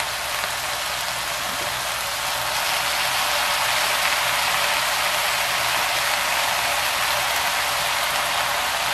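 Shiitake mushrooms and onions sizzling steadily in hot oil in a frying pan as soy sauce is spooned over them; the sizzle grows a little louder about two and a half seconds in.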